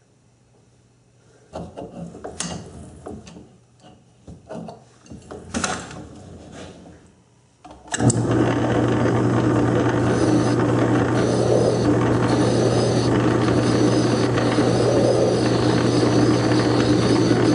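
A few scattered knocks and clicks of handled metal parts, then about eight seconds in a South Bend lathe starts up and runs steadily, a constant low hum under its motor and gear train noise.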